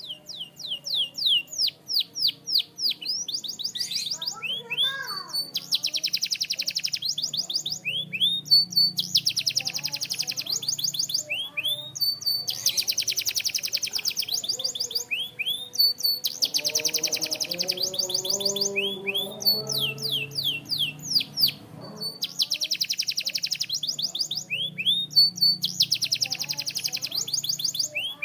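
Canary singing a continuous song: runs of rapid falling whistled sweeps alternating with high, very fast trills lasting a second or two each, repeating over and over. A faint low hum sits underneath.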